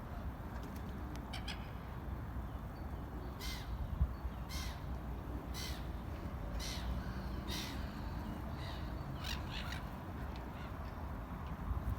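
Birds calling outdoors: a run of short, harsh, caw-like calls repeated about once a second from a few seconds in, over a steady low background rumble.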